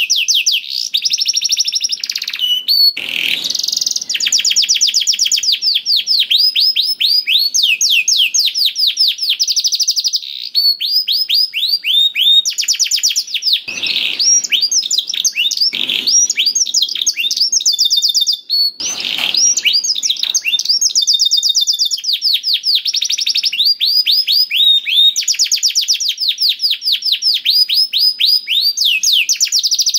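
Domestic canary singing continuously: long rolls of rapidly repeated, sweeping high notes, one trill running straight into the next.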